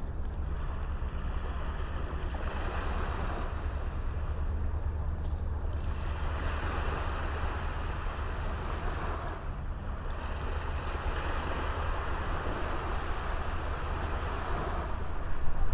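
Small sea waves breaking and washing on the shore, the wash swelling and easing every few seconds, over a steady low rumble of wind on the microphone.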